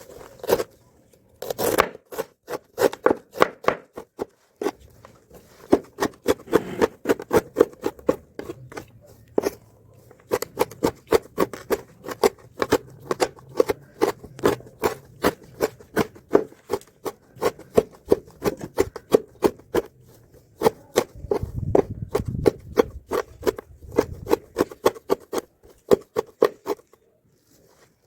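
A knife chopping mallow (bakoula) leaves on a cutting board: rapid, even strikes, about three to four a second, stopping shortly before the end.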